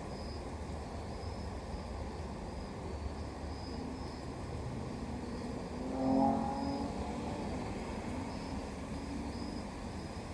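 Steady low hum of distant road traffic, with one vehicle passing about six seconds in, its engine note swelling and fading over a couple of seconds. Crickets chirp faintly and evenly throughout.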